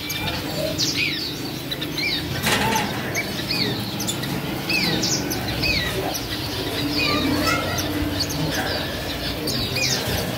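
Small finches chirping: many short, arched calls repeated throughout, several birds overlapping, with a brief flutter of wings about two and a half seconds in.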